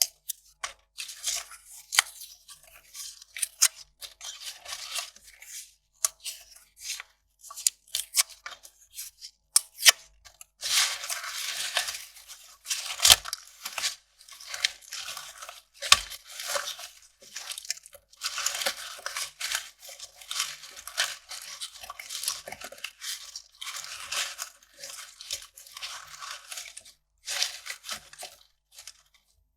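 Kraft paper being torn and crumpled: bouts of sharp crackles and snaps, broken up by several longer stretches of continuous ripping. It stops just before the end.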